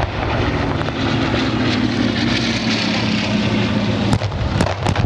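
A Bristol Blenheim's twin Bristol Mercury nine-cylinder radial piston engines drone as it flies over. The engine note drops away about four seconds in.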